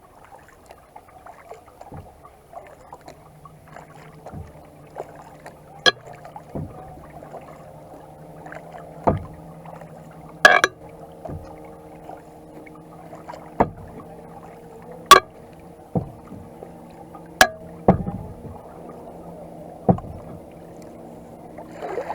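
Kayak paddling, with a sharp knock of the paddle every couple of seconds, over the steady hum of a motorboat engine on the lake.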